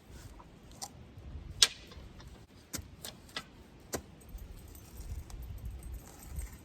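Post hole digger being worked into sandy soil: a string of about six sharp metal clinks and knocks, the loudest about a second and a half in, over a low rumble.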